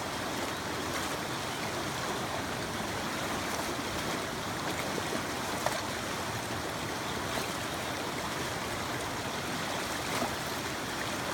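Mountain creek water rushing steadily over rocks, with a couple of faint clicks.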